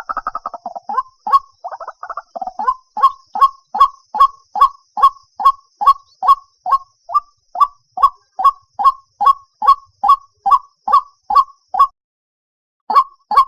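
White-breasted waterhen calling, a recorded lure call for bird traps: a fast chattering run at first, then a steady series of single notes about two and a half a second, breaking off for about a second near the end before starting again.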